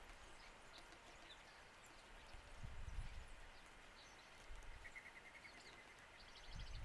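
Faint wild bird calls: scattered short high chirps and a brief trill of quickly repeated notes a little past the middle, over a few low rumbles and a steady faint hiss.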